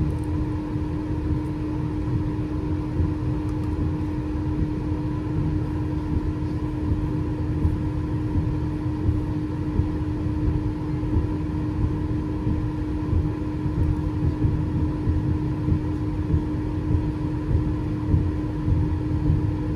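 Passenger train in motion: a steady low rumble of the carriage running on the rails, with a constant hum over it.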